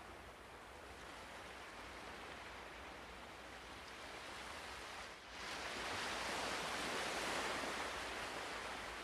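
Ocean waves washing on a shore, a soft steady hiss of surf. About five seconds in the sound dips for a moment, then a wave swells up louder and eases off.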